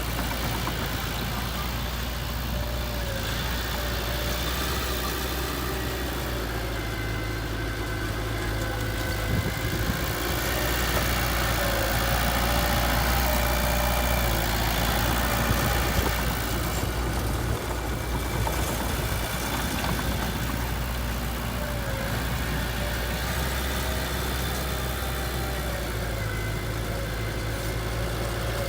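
Diesel engine of heavy earthmoving equipment running steadily, swelling a little in the middle.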